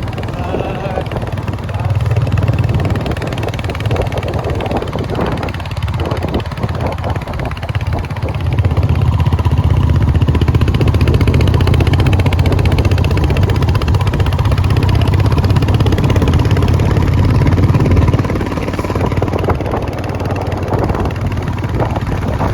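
Royal Enfield Hunter 350's single-cylinder engine running as the motorcycle is ridden along, louder from about a third of the way in and easing off near the end.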